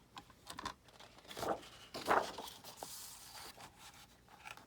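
Paper rustling and scraping as sheets are handled and slid into place, with a couple of louder swells near the middle and a few small clicks.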